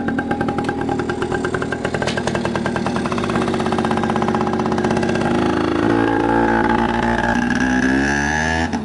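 Small Yamaha PW two-stroke kids' dirt bike running with a fast, buzzing firing rhythm, rising in pitch through the second half as it is revved and picks up speed, then dropping off at the very end.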